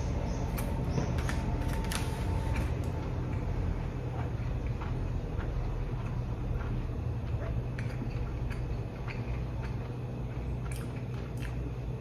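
Person chewing a mouthful of rice, soft munching with small wet mouth clicks now and then, over a steady low hum.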